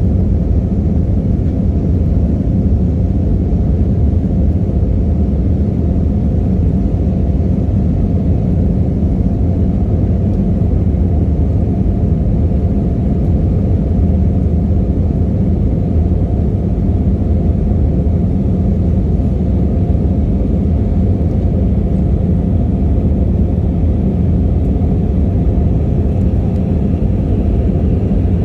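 Airbus A321-211 jet airliner heard from inside the passenger cabin: a steady, loud, low rumble of the CFM56 engines and the airframe, with no rise or fall.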